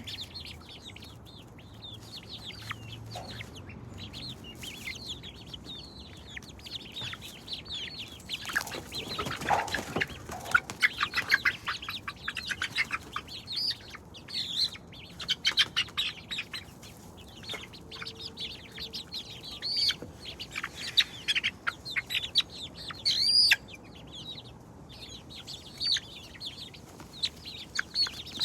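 Chickens giving many short, high chirping calls in quick succession, with a louder burst of wing flapping about nine seconds in.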